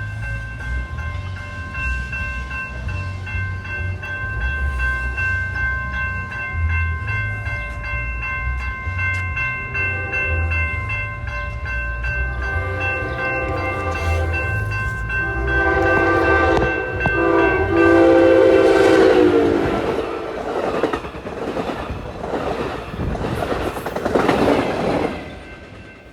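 Railroad crossing bell ringing steadily as a train approaches, its horn sounding several times and growing louder. The train then rushes past the crossing with wheel clatter, and the sound falls away sharply near the end.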